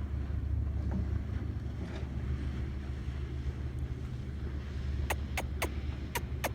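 Steady low rumble of wind buffeting the microphone, with five quick sharp clicks a little after five seconds in.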